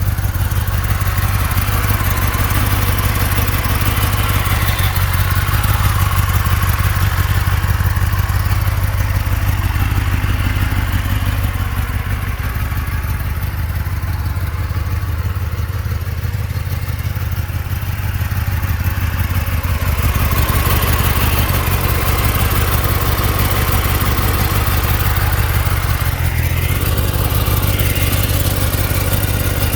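Stock 2024 Kawasaki Ninja ZX-10R inline-four engine idling steadily through its factory exhaust.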